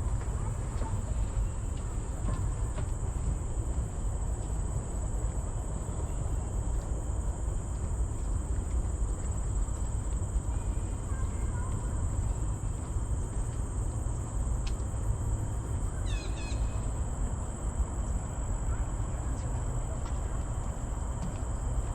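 Forest ambience: insects keep up a steady high-pitched drone over a low rumble. A bird gives a short run of chirps about three-quarters of the way through.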